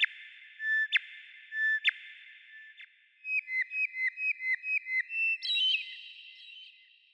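A songbird singing: three loud whistled notes about a second apart, each ringing on afterwards, then a quick run of about ten short chirps, four or five a second, ending in a higher cluster of notes.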